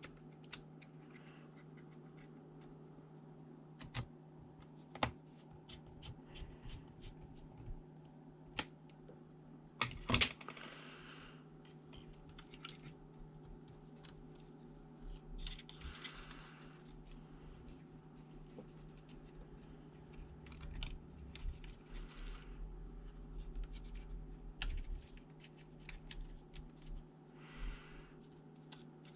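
Scattered clicks, taps and a few short scrapes of hands and small tools working on a ThinkPad T400 laptop's internals, with the loudest cluster of clicks and a scrape about ten seconds in. A steady low hum runs underneath.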